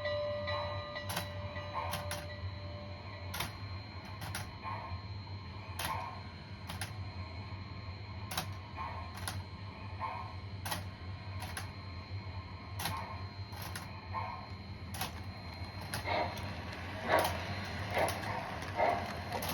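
MTH O-gauge model of the Pennsylvania Railroad 6200 steam turbine running on its track: its wheels click over the rail joints about once or twice a second over a steady low hum. The clicks grow louder and come in quicker clusters near the end.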